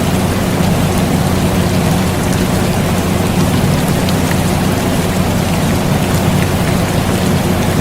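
Steady rain over a continuous air conditioner hum, the rain a constant hiss with faint scattered drop ticks. The mix is even throughout, with no changes.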